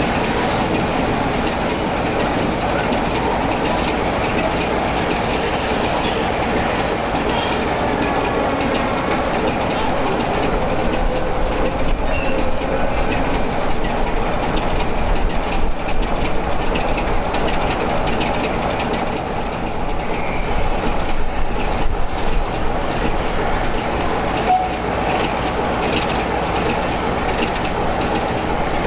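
Heritage train running along the track, a steady rumble of wheels on rail, with brief high wheel squeals a few times.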